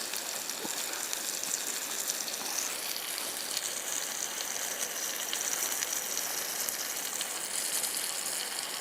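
Burgers frying over a campfire, a steady high sizzling hiss with many fine crackles and spits.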